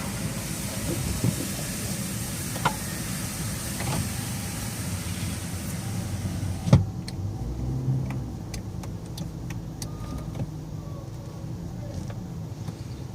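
A car's power window winding shut and closing with a thump about two-thirds through, after which the outside hiss cuts off and only the idling car and a few faint clicks remain.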